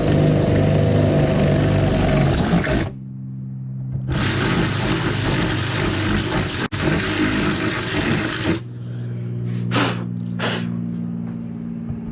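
Electric drill boring through a car's trunk lid for a wing mount. It runs for about three seconds, stops, runs again for about four and a half seconds, then gives two short bursts near the end.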